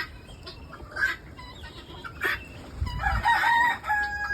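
Free-range chickens clucking around feed. A rooster crows in the last second or so, a long held note over the flock's clucking.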